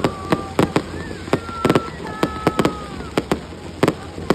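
Fireworks display going off: a rapid, irregular string of sharp bangs, about three a second, with a few thin whistling tones between them near the middle.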